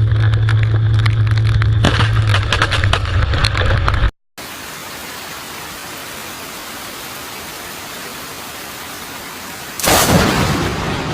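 A steady low hum with crackling, then after a cut a steady hiss of heavy rain, broken near the end by a sudden loud close thunderclap from a lightning strike that fades off.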